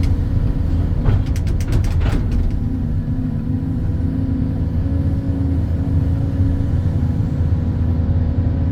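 Excavator's diesel engine running steadily, with a quick run of sharp metallic clicks and knocks between one and two seconds in.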